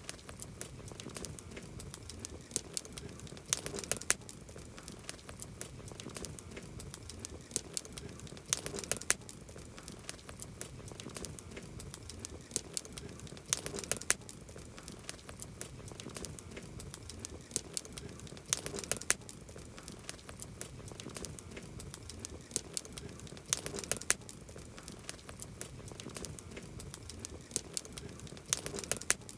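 Wood campfire crackling, with constant small sharp pops and a denser flurry of crackles about every five seconds.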